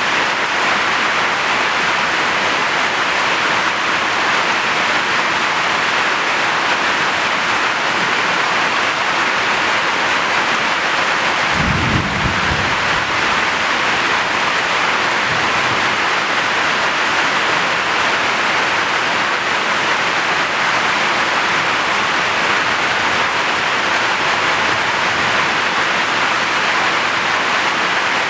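Heavy rain falling steadily in a dense, even hiss. About twelve seconds in, a short low rumble of thunder sounds, with a fainter rumble a few seconds later.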